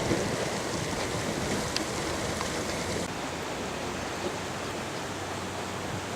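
Steady rushing water noise; the high hiss thins slightly about three seconds in.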